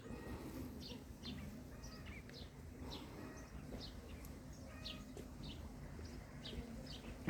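Small birds chirping: short, high chirps repeating about twice a second, over a low steady rumble.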